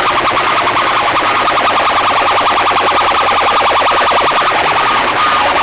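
Loud DJ sound-system speakers blasting a distorted, rapidly pulsing siren-like alarm tone, unbroken throughout.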